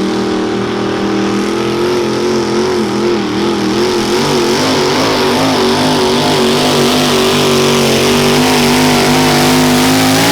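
Mini modified pulling tractor's engine held at high revs under load during a pull, its pitch wavering for a few seconds, then steady and slowly growing louder.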